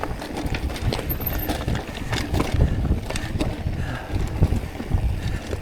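Mountain bike rolling over a dirt trail: the tyres rumble, with frequent small clicks and rattles from the bike.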